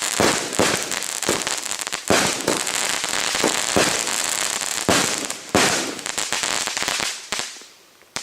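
Four Super Crackling Rainbow firework cakes going off at once: a dense crackling packed with sharp shots that dies away near the end.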